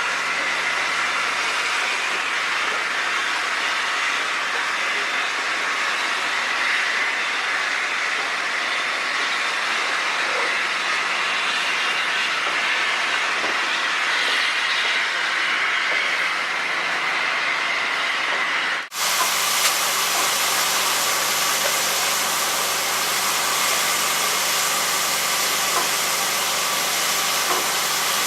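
Steady hiss and rumble of a railway locomotive. About two-thirds of the way through there is an abrupt break, after which the hiss turns brighter and fuller over a low, steady hum.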